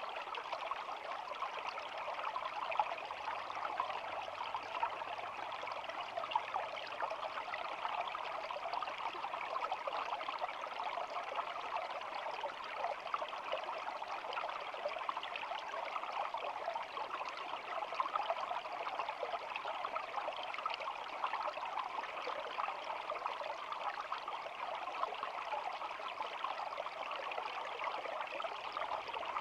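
Shallow stream of water flowing steadily, a continuous trickling babble.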